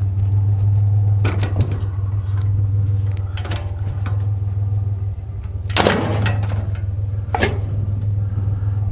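Truck engine idling steadily, with four clattering knocks of scrap being grabbed and pulled from a pile, the loudest about six seconds in.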